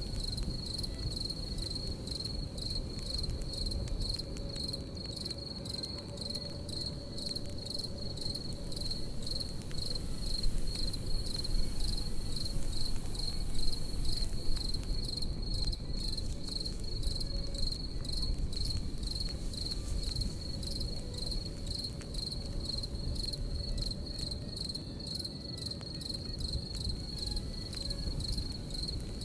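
Crickets chirping in a fast, continuous high-pitched trill over a crackling campfire, with low rumbling and scattered small pops from the fire.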